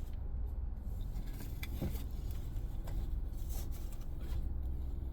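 Tarot decks and cards being handled: scattered light clicks and rustles, one firmer knock about two seconds in, over a steady low rumble.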